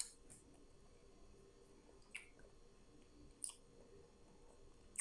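Faint sounds of a person chewing grilled isaw (skewered chicken intestine), with a few short, sharp mouth clicks at the start, about two seconds in and about three and a half seconds in.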